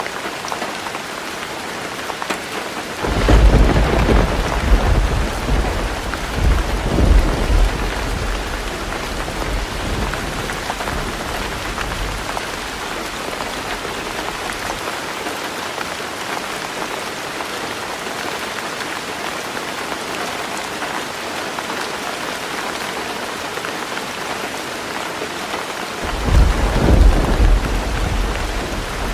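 Heavy rain pouring steadily on a roof, a continuous hiss of raindrops, with thunder rumbling low for several seconds about three seconds in and rolling again near the end.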